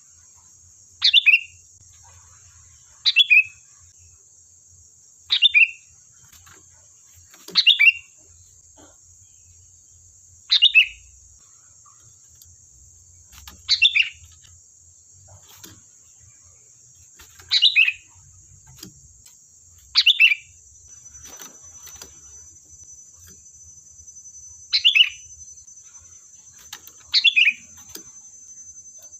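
Sooty-headed bulbul (kutilang) calling: about ten short, loud calls, each falling in pitch, repeated every two to four seconds.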